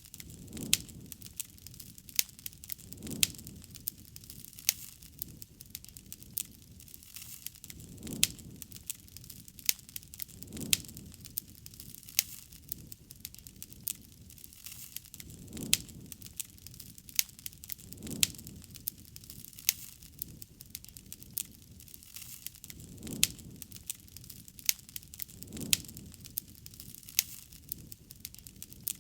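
Wood campfire crackling, with frequent sharp pops and snaps over a soft low rush of flame that swells every two or three seconds.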